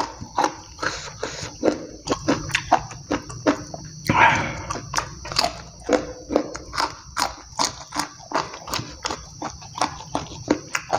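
Close-miked chewing of raw green eggplant and rice: wet crunching and mouth smacking at about two to three crunches a second, with a longer, louder breathy noise about four seconds in.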